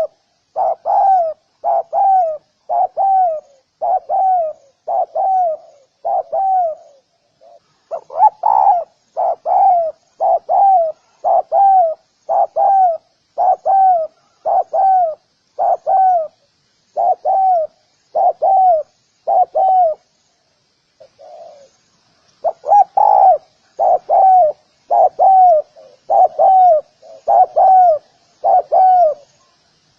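Spotted dove cooing: a long series of low, slightly falling coos, about one and a half a second, broken by two short pauses, near 7 seconds and about 21 seconds in.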